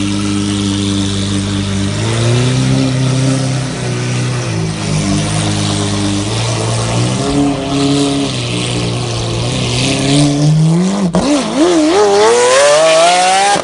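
Lamborghini engine holding steady revs, stepping up and down in pitch a few times, then revving hard in a wavering rising sweep over the last few seconds. It has a high, Formula 1-like sound.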